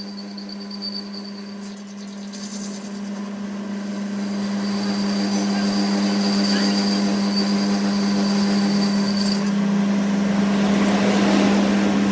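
Workshop machine running with a steady hum and a thin high whine on top, growing louder over the first several seconds, then holding.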